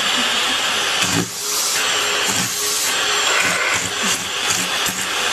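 A small electric appliance running with a steady, loud rushing hiss of moving air.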